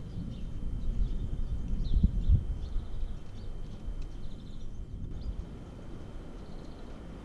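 Outdoor ambience: a steady low rumble with a few faint, short bird chirps in the first few seconds.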